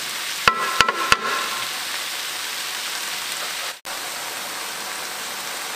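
Stir-fry of chicken gizzards, livers and young corn sizzling steadily in a wok, left to cook in a splash of broth. About half a second in come three quick sharp knocks with a short ring, the wooden spatula tapping the wok.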